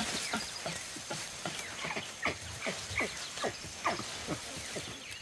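Tropical forest ambience: a dense chorus of short, falling chirps from small animals, several a second, over a steady high-pitched whine and hiss.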